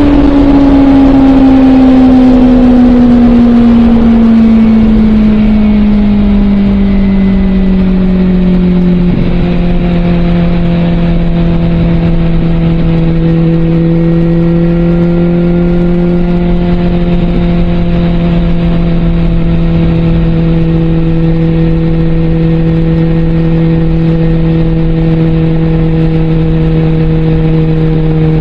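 Suzuki GSX650F inline-four running through a Scorpion aftermarket exhaust, under way: the engine note falls steadily over the first several seconds as revs come down, then holds at a steady lower pitch.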